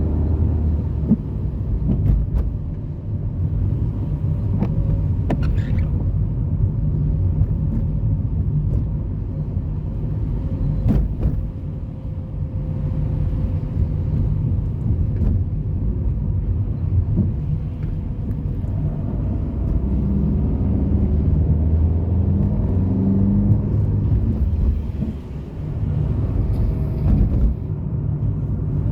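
Low, steady rumble of car traffic, with a few brief clicks.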